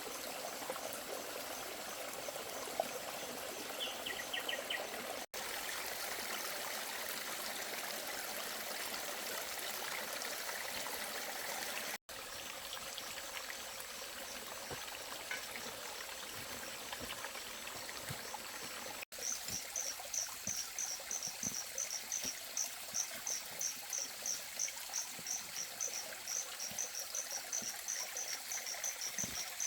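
Steady rush of water, running or falling as rain, with a faint insect chirr. About two-thirds of the way through, a high insect chirp starts repeating at about three chirps a second. The sound drops out for an instant three times.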